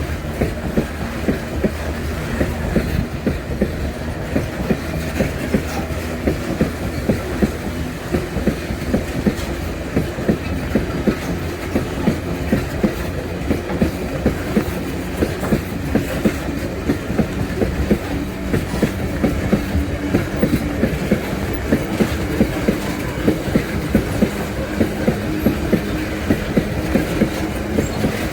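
Loaded freight wagons rolling past: a steady rumble with a regular clickety-clack of wheels over the rail joints, about two clicks a second.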